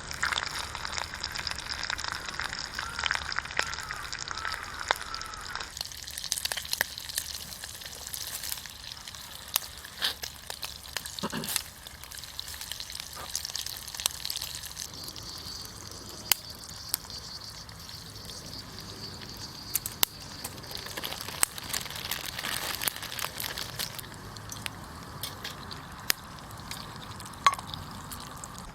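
Food sizzling in a pan over a campfire, a steady frying hiss with sharp crackles and clicks scattered through it.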